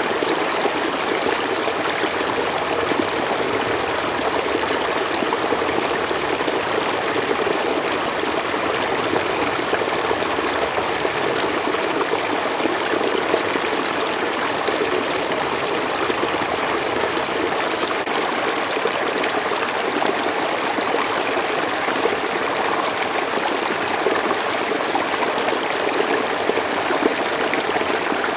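River water flowing and splashing over rocks, a steady rushing with no breaks.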